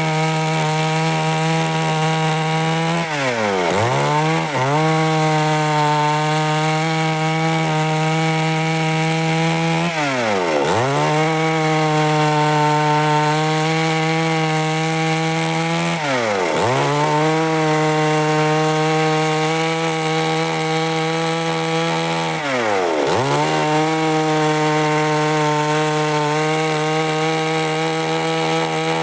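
Stihl MS 382 two-stroke chainsaw held at high revs while cutting wood. Its revs drop sharply and pick straight back up about every six to seven seconds.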